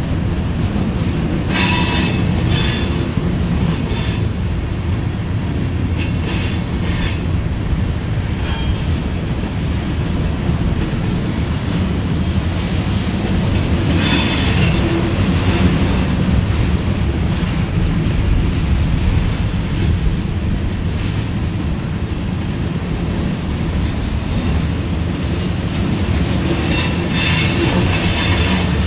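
Empty covered hopper grain cars rolling past: a steady low rumble of steel wheels on rail, with high wheel squeal rising three times, about a second and a half in, around fourteen seconds in, and near the end.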